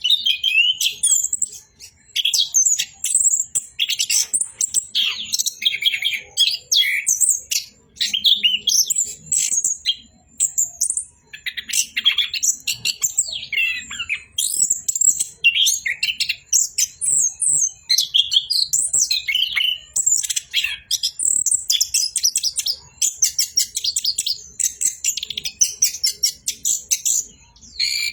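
Orange-headed thrush (anis kembang) singing a continuous rolling song of fast, varied, high-pitched chirps and trills, with only brief pauses.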